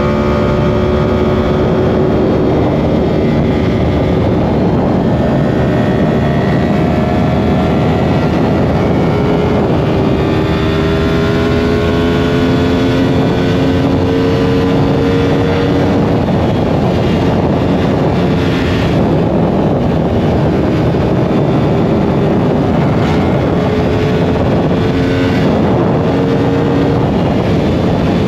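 Yamaha R1 sport bike's inline-four engine running at sustained speed, its note climbing slowly for several seconds at a time as it pulls in gear, then dropping and climbing again, under a heavy rush of wind and road noise.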